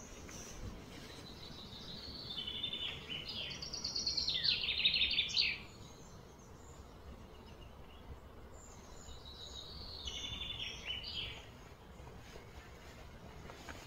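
A songbird singing two phrases of quick, high, chirping notes. The first is longer and louder and breaks off about halfway through; the second, shorter one comes near ten seconds in. A steady low outdoor hum sits beneath them.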